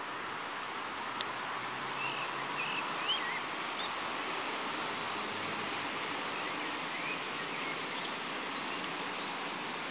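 Steady hiss of a train still far off on an electrified line, approaching. A few short rising bird chirps sound over it, mostly a few seconds in.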